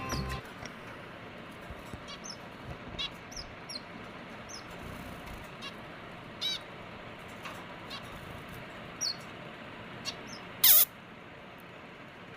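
Birds calling: short high chirps every second or so, many dropping in pitch, over a faint steady hiss. Near the end comes one louder, harsher call that falls steeply.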